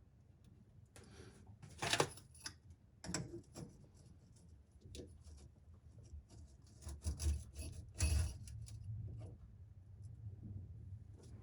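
Drain pipe fittings being handled and threaded together by hand: irregular rubbing, scraping and clicks, loudest about two seconds and eight seconds in.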